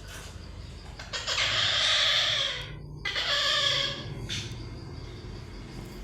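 A parrot squawking: two loud, harsh calls of over a second each, then a short third one.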